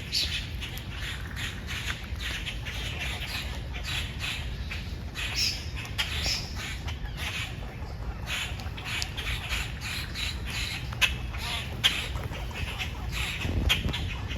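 Birds calling busily, with many short, sharp calls overlapping in quick succession.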